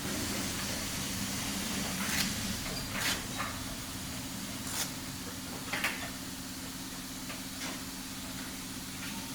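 Steady low machine hum with a handful of short, sharp clicks or snips at irregular moments.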